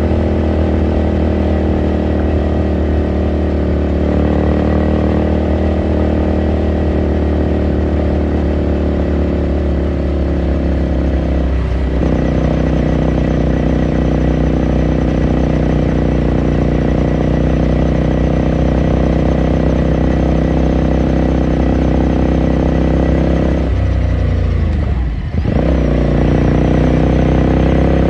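2018 Ducati Scrambler Sixty2's air-cooled 399 cc L-twin running steadily under way, heard from onboard the bike. The revs dip briefly about twelve seconds in, and near the end they fall away deeper for a second or so, then climb again.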